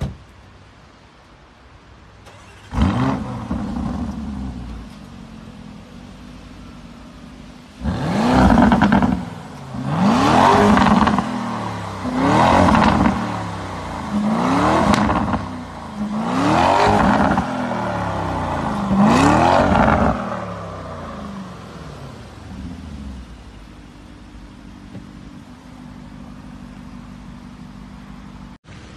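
Lamborghini Urus 4.0-litre twin-turbo V8 starting up about three seconds in with a loud flare, then settling to idle. It is then revved six times in quick succession, each rev rising and falling in pitch, before settling back to idle.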